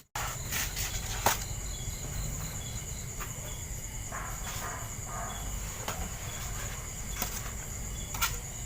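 Insects chirping steadily in a repeating pattern over a low steady hum, with a few sharp clicks.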